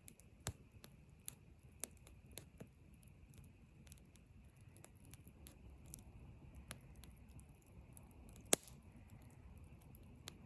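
Scattered sharp clicks and snaps at an irregular pace, one much louder snap about eight and a half seconds in, over a faint steady high hiss.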